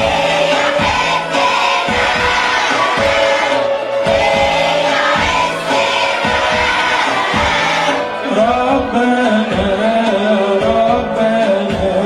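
Choir singing an Arabic Christmas hymn medley over instrumental accompaniment with a steady beat.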